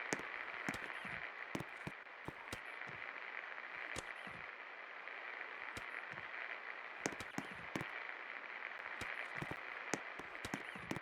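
A 48-inch Best Electric Works Hira ceiling fan running, a steady hiss-like noise, with irregular sharp clicks and crackles scattered through it.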